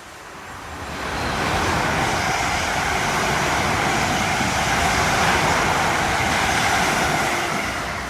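A train passing by: a steady noise of wheels and running gear that builds over the first second and a half, holds, then fades near the end.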